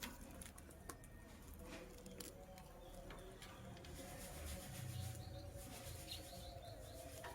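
Lovebird making faint scattered clicks and rustles, with a small run of short high chirps about five and six seconds in.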